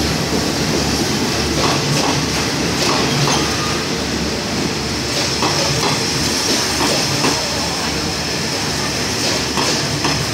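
Passenger coaches of a State Railway of Thailand express train rolling close past at speed, a steady rumble with irregular clicks of the wheels over rail joints. The end of the last coach goes by near the end.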